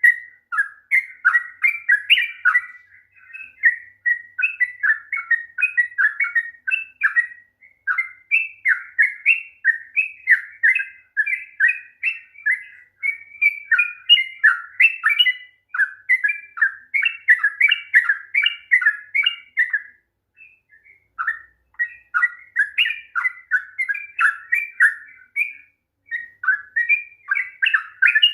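Yellow-vented bulbul (trucukan) singing a long, continuous run of fast chattering notes that rise and fall, with two short breaks: one about twenty seconds in and one a few seconds later.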